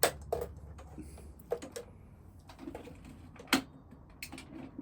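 A few separate sharp clicks and knocks from handling the Flymo Hover Vac 250 electric mower, the loudest about three and a half seconds in. No motor runs: the plugged-in mower fails to start.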